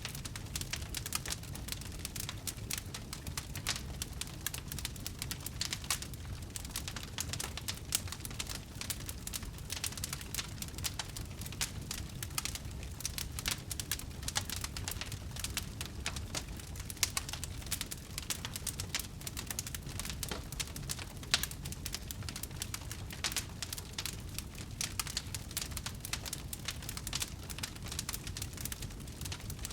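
Wood fire crackling: dense, irregular snaps and pops over a low steady rumble, with an occasional louder pop.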